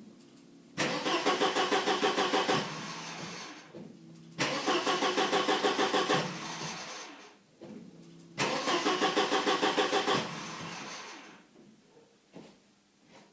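Mercedes W124 M102 2.0-litre engine being cranked on the starter three times, each attempt about two seconds of rhythmic compression pulses that then dies away without settling into a run. This fits the car's complaint of starting and then stalling.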